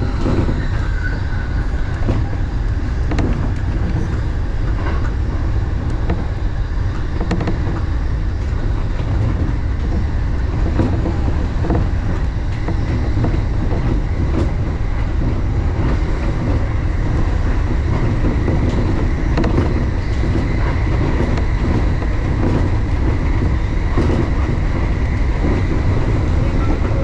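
Electric commuter train running at speed, heard from inside the driver's cab: a steady rumble of wheels on rail with scattered clicks over the rail joints, and a high whine that grows clearer in the second half.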